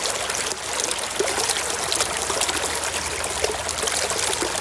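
Running water trickling and splashing steadily over a toy that is being washed.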